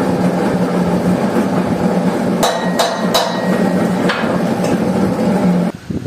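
About four sharp metallic hammer strikes, a few tenths of a second to a second apart, over a steady hum that cuts off near the end.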